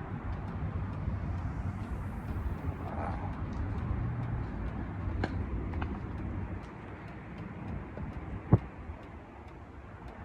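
Outdoor street ambience: a steady low hum of distant traffic, with one sharp click about eight and a half seconds in.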